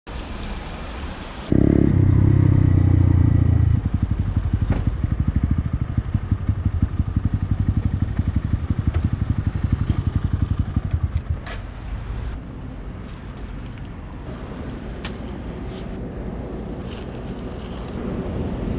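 Honda MSX125 (Grom) mini motorcycle's small single-cylinder engine. It runs loud for about two seconds, then settles into a fast, even pulsing beat, and is quieter from about twelve seconds in.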